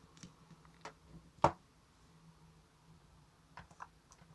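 Light, scattered clicks with one sharper tap about a second and a half in, as wooden lollipop sticks are handled and set down on a table.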